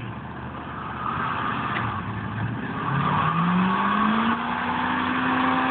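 Pickup truck doing a burnout: the engine revs climb sharply about three seconds in and then hold high, over a rising hiss of spinning, squealing tyres.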